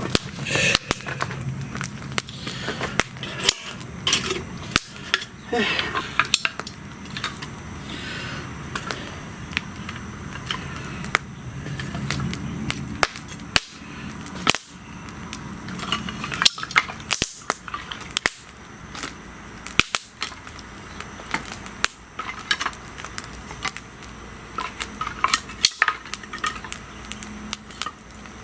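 Wood fire crackling, with irregular sharp pops and snaps from the burning wood.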